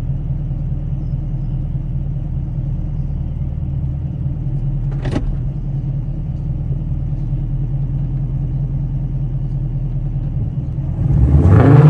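2021 Chevrolet Camaro SS's 6.2 L V8 through an AWE Track Edition axle-back exhaust, heard from inside the cabin: a steady low drone with a single click about five seconds in. Near the end the engine revs up, rising in pitch and getting louder.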